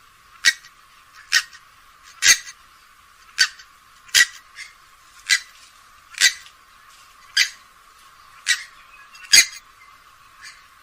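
Grey-headed swamphen giving a series of short, sharp calls, about one a second, ten in all. The recording sounds thin, with its low end filtered away.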